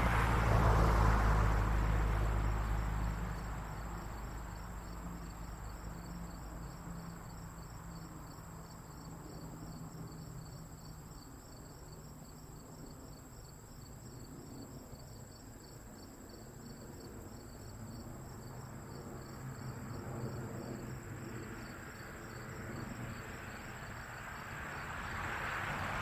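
Insects chirping in a steady, fast, high-pitched pulse. Under it a low engine-like rumble is loudest at the start, fades within a few seconds, and builds again near the end.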